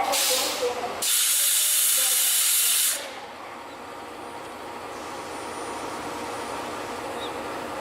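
Compressed air venting from a train at the platform: a brief hiss, then a loud two-second blast of air that cuts off sharply, followed by a steadier, quieter train running noise.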